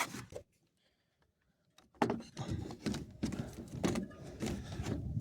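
After a brief dead-silent gap, scattered clicks and knocks of a cordless drill being handled and fitted onto the screw of a hose clamp around an exhaust heat shield, with faint motor-like whirring.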